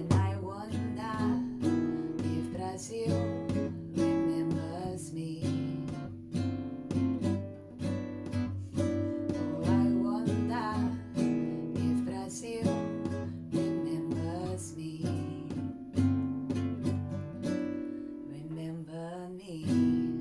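Solo acoustic guitar strummed in a steady rhythm, an instrumental passage closing a song, with a last chord ringing out near the end.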